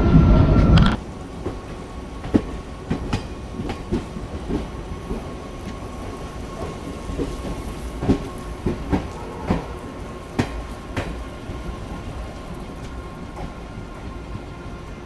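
Passenger train carriage running on the line, with irregular sharp knocks of the wheels over the rails over a steady rumble. A louder sound stops abruptly about a second in.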